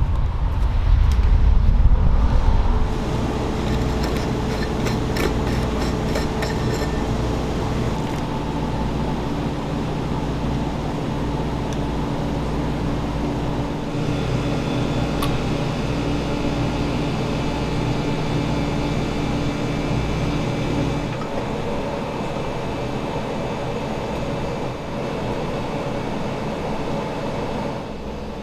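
Steady mechanical running noise: a low rumble with a few held steady tones, louder for the first few seconds.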